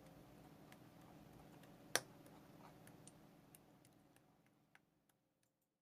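A single sharp click about two seconds in and a few faint ticks over a low steady hum, fading to silence near the end.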